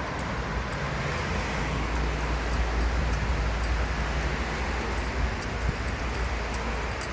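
Steady low rumble of vehicle noise, swelling in the middle and easing again toward the end.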